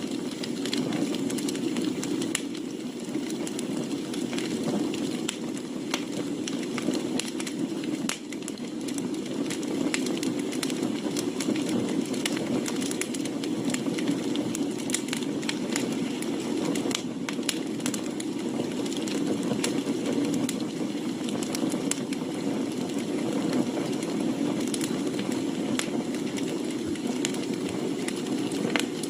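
Wood campfire burning, with scattered sharp crackles and pops over a steady low noise.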